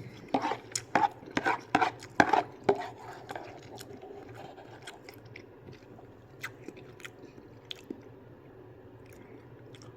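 A person eating ramen noodles close to the microphone: chewing, with a quick run of wet mouth clicks in the first three seconds, then only scattered faint clicks.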